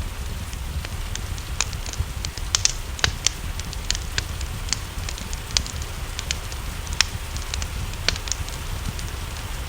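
Wood fire crackling in a fireplace, with irregular sharp pops, a few of them louder, over a steady low rumble and a soft hiss of rain.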